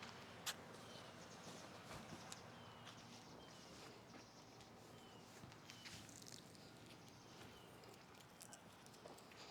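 Quiet outdoor ambience with faint bird chirps: short falling notes repeated roughly once a second, and a sharp click about half a second in.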